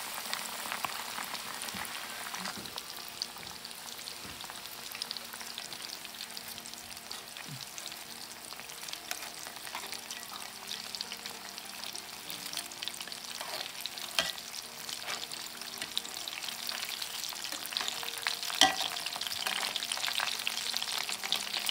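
Breaded smelt sizzling and crackling steadily as they pan-fry in about an inch of avocado oil at 350 degrees in a cast iron skillet. A few sharp clicks of metal tongs against the pan, the loudest a little past halfway and near the end.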